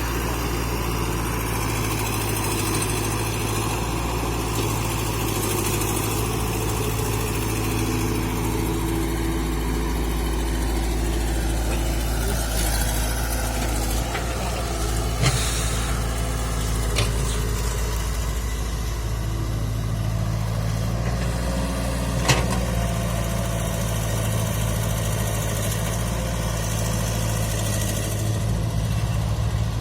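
Sonalika DI 750 tractor's diesel engine running steadily at low revs, with a couple of brief sharp knocks partway through.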